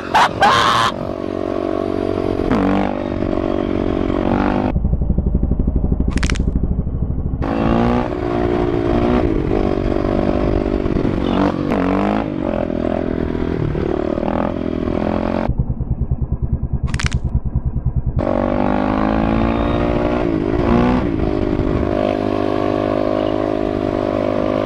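Motorcycle engine while riding, revving and shifting up through the gears. Twice the throttle is closed for a few seconds and the engine falls to a low, pulsing beat before pulling again.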